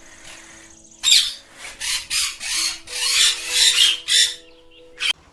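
A bird giving a run of harsh, raspy squawks, several a second, starting about a second in, with one short squawk near the end.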